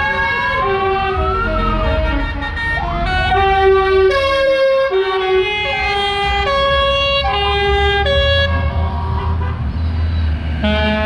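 Electronic siren and musical horn on a vehicle: a rising whoop in the first second and a half, then a tune of held notes that step up and down and stops at about 8 seconds in. A low vehicle rumble runs underneath.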